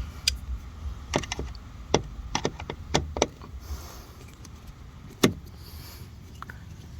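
A series of sharp clicks and knocks from hands and tools working on a car's door panel, the loudest about five seconds in.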